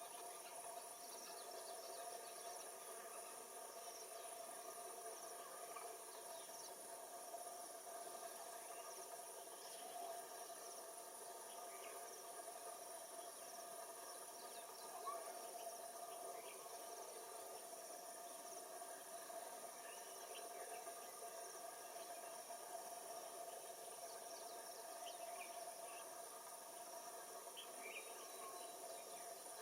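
Faint, steady chorus of insects such as crickets, with a few short chirps scattered through.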